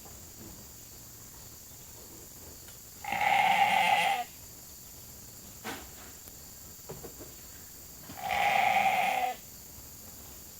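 Sheep bleating: two loud, steady calls of about a second each, the first about three seconds in and the second about eight seconds in, from hungry sheep waiting for their evening grain.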